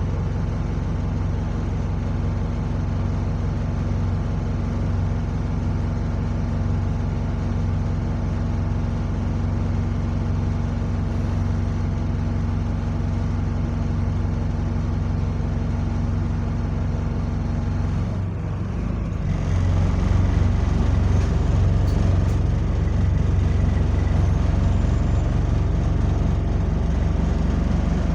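A bus's diesel engine running steadily at idle. About two-thirds of the way in there is a short hiss and break, after which the engine runs louder with a faint high whine, as when the bus pulls away.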